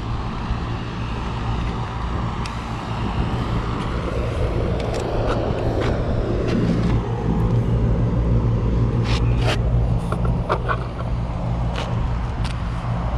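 Outdoor air-conditioning condenser running with a steady low hum, with a few sharp clicks about nine to eleven seconds in.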